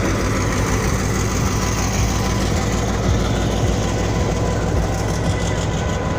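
Train's diesel locomotive running with a steady low drone.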